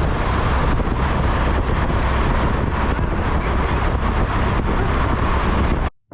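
Wind rushing over the microphone with vehicle road noise, as from a moving open-top car; it cuts off abruptly near the end.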